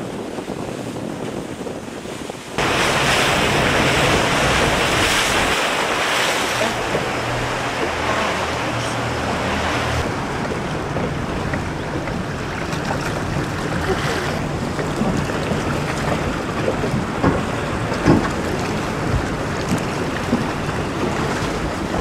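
Wind buffeting the microphone over waves and moving water, with a low steady hum underneath from the boat's motor. The wind noise jumps up sharply about two and a half seconds in and eases off again after about ten seconds, with a few short knocks near the end.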